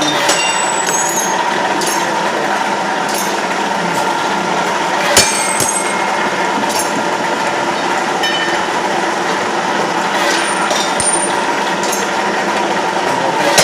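Machinery running steadily with a continuous hum, with occasional sharp metal clanks and clinks that ring briefly, the loudest about five seconds in.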